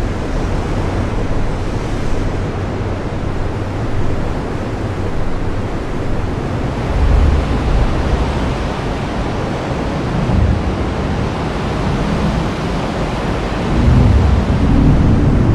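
Heavy rain falling steadily, with low rumbles swelling up a few times, the strongest near the end.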